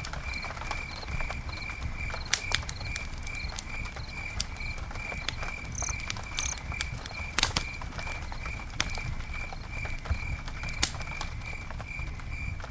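Campfire crackling with occasional sharp pops, over a low steady rumble. Throughout, a high, even chirping repeats about two to three times a second.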